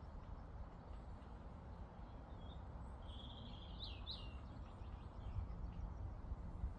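Steady low outdoor background rumble, with a single short songbird call about three seconds in: a brief high note, then a couple of quick falling notes.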